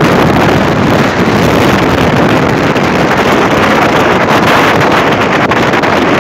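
Wind rushing over the microphone at the open door of a moving passenger train, mixed with the train's steady running noise. Loud and unbroken throughout.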